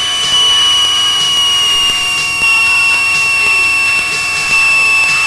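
Cockpit audio of a Cessna 182 on landing: a steady high whine that slowly drops in pitch over the engine noise, with faint regular ticks.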